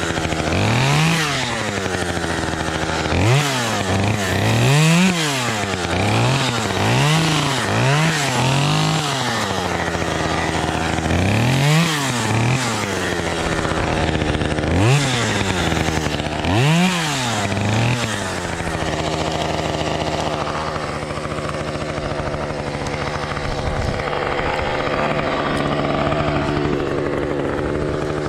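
Two-stroke chainsaw engine revved up and down over and over, its pitch rising and falling with each burst of throttle, then running at a steadier pitch from about two-thirds of the way in.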